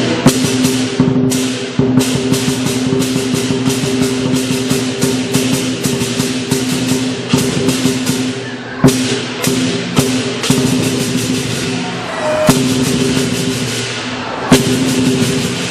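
Lion dance percussion band playing: a big drum with rapid clashing cymbals, about three to four crashes a second at first, then sparser in the second half.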